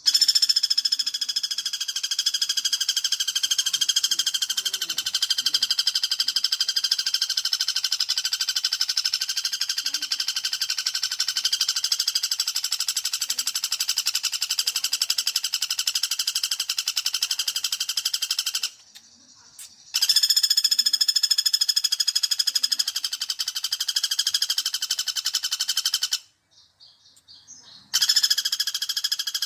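Rapid, continuous trilling call of a pelatuk bawang woodpecker, played as a looped lure (pikat) recording. It is a fast, even rattle of high notes that breaks off briefly twice and then resumes.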